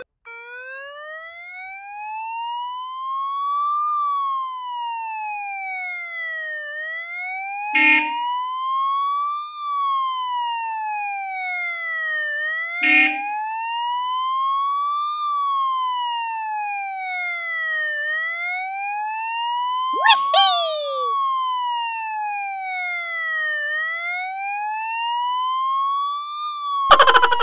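Electronic police siren wailing slowly up and down, each rise and fall taking about three seconds. Two short sharp hits come about 8 and 13 seconds in, a quick falling swoop about 20 seconds in, and a loud rattling burst at the very end.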